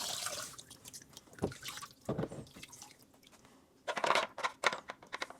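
Handling noises from wet, freshly cleaned washing-machine parts: a few scattered light knocks and squishy, dripping rubs, with a cluster of them about four seconds in.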